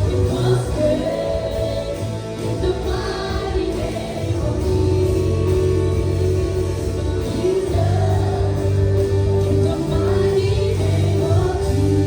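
Live church worship music: a band with sustained bass and keyboard notes under singers holding long notes in a slow praise song.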